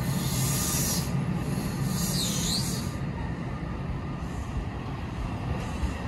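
Commuter train running through the station: a steady low rumble with a high hiss, and a short high-pitched wheel squeal about two seconds in.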